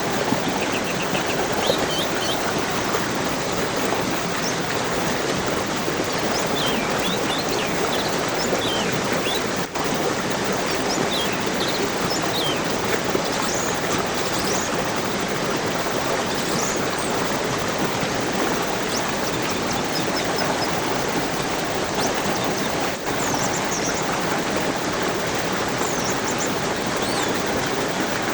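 A stream of rushing water running steadily, with small birds chirping and twittering on and off above it.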